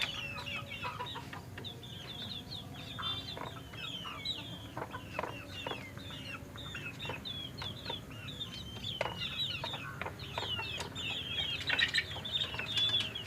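Chickens and small birds calling together: a steady, dense chatter of short high chirps mixed with clucking and scattered sharp clicks, growing louder for a moment near the end.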